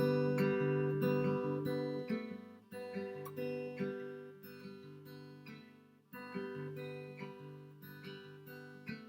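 Acoustic guitar strumming the chords of the intro, each chord ringing out and fading before the next is struck, about every three seconds.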